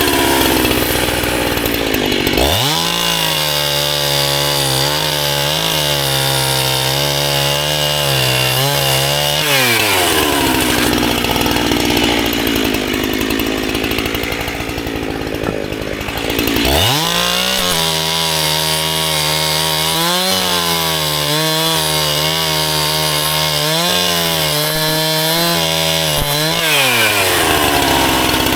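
Gas chainsaw cutting firewood. The engine revs up to a high, wavering note, drops back, then revs up again and falls off near the end.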